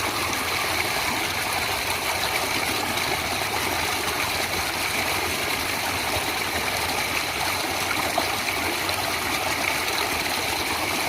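Natural flowing water rushing steadily, an even hiss-like wash with no pauses.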